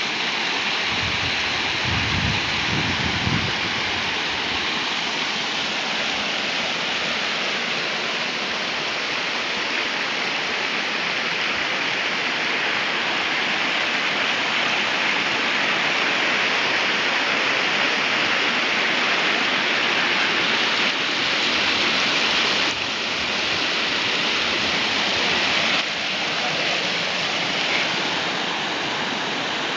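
Waterfall torrent rushing down a rocky gorge close by: a loud, steady roar of falling water. There is a brief low rumble about two seconds in, and the level steps down abruptly twice in the second half.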